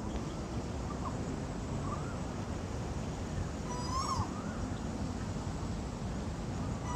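Asian koel calling: short rising-then-falling notes, two faint ones in the first two seconds and a stronger one about four seconds in, over a steady low background rumble.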